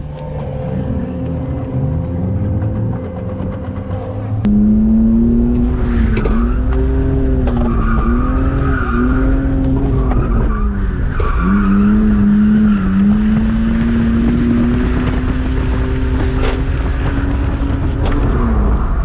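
BMW E46 drift car's engine revving up and down repeatedly during a drift run, with tyres squealing. The sound gets much louder about four and a half seconds in.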